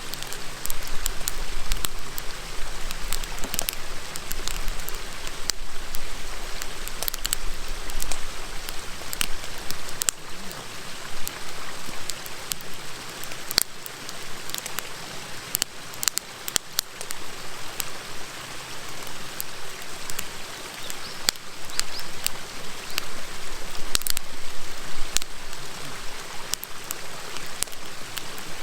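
Wood fire crackling, with frequent sharp pops and snaps, over the steady rush of a river.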